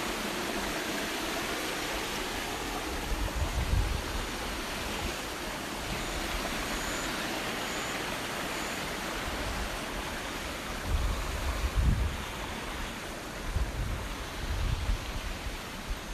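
Steady rushing of flowing water from a waterfall or stream. Several low rumbling thumps come through the microphone about a quarter of the way in and again in the last third.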